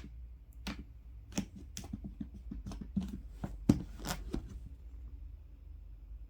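Irregular rustling with light clicks and taps, loudest a little before four seconds in, dying away by about four and a half seconds.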